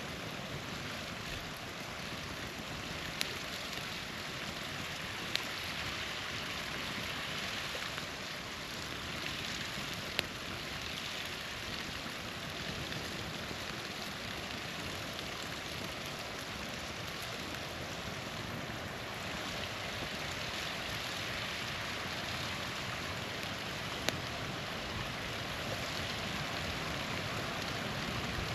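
Small waterfall rushing steadily, with a few sharp pops from a wood campfire: about three, five, ten and twenty-four seconds in.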